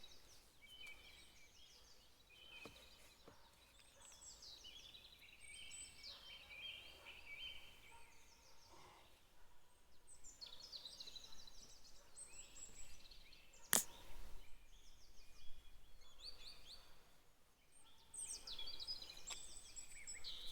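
Several small birds chirping and singing throughout, with one sharp knock about two-thirds of the way through.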